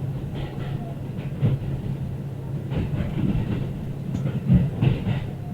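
Diesel railcar running along the track: a steady low engine and running hum, with wheels knocking over rail joints a few times, loudest about four and a half seconds in.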